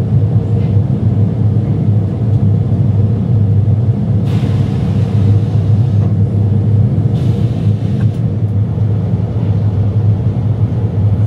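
Cummins X15 diesel engine of a triaxle dump truck running at a steady idle, with two brief hissing rushes about four and seven seconds in.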